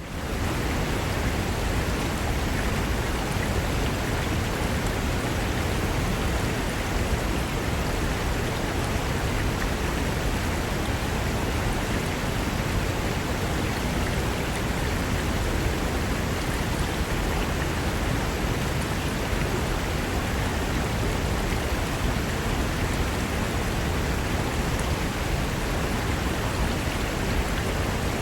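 Fast mountain river rushing over rocks: a steady, full rush of water that fades in at the very start and then holds even.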